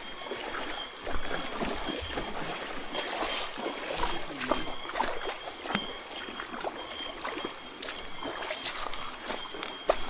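Water sloshing and splashing with scattered small knocks, as of people wading through a shallow rocky creek. A faint high steady tone comes and goes.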